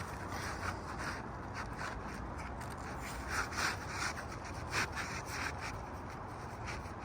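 Asphalt roof shingle rubbing and scraping against the shingles around it as it is slid into place, in short irregular strokes.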